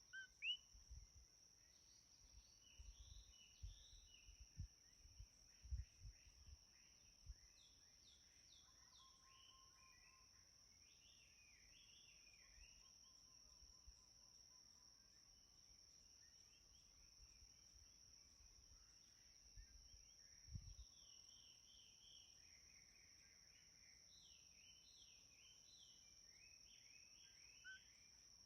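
Songbirds chirping softly in quick repeated phrases over a steady high-pitched insect trill. A few soft low thumps come in the first several seconds and again about two-thirds of the way in.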